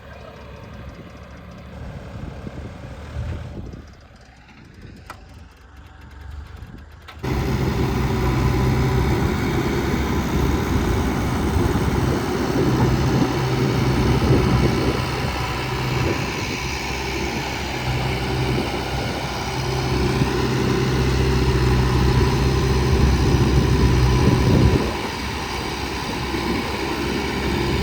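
Tractor diesel engine running steadily; about seven seconds in it jumps abruptly to much louder and stays loud.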